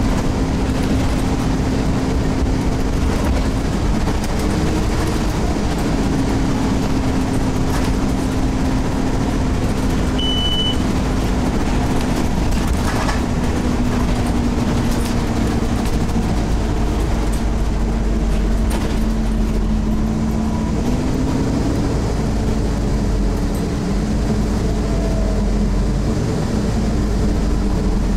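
Scania OmniCity bus heard from inside while under way: the diesel engine running hard over a heavy road rumble, its note shifting up and down in pitch several times. A short high beep sounds about ten seconds in.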